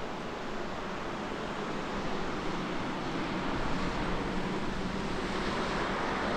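Steady rushing noise of wind and moving air, with a faint low steady hum underneath, growing slightly louder towards the end.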